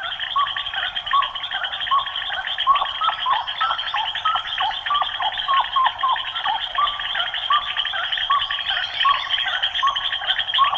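Summer field ambience: a steady insect drone with a bird giving short, hooked call notes over and over, about two a second. The sound is thin, as if heard through a narrow band.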